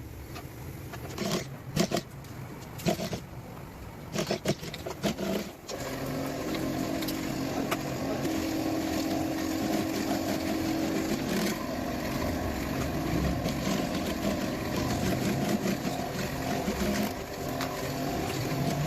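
A run of sharp knocks and clicks from upholstery tools in the first few seconds, then a steady motor hum with a low held tone from about six seconds in.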